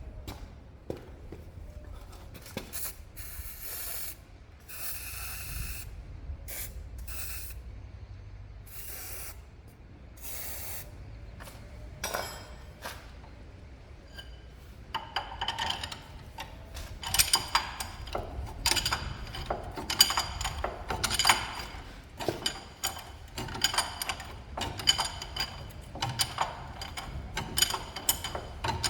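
Several short hisses from an aerosol can of penetrating oil in the first ten seconds or so. Then, from about fifteen seconds in, a hand ratchet wrench clicking in quick runs as it turns a tight suspension bolt.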